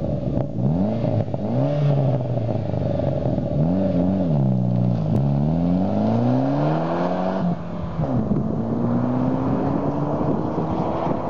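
1999 Saab 9-3 Turbo's turbocharged four-cylinder, breathing through a 2.75-inch catback with a generic muffler, revved twice and then accelerating away hard. The pitch climbs steadily, breaks briefly at a gear change about two-thirds of the way through, then climbs again in the next gear as the car pulls into the distance.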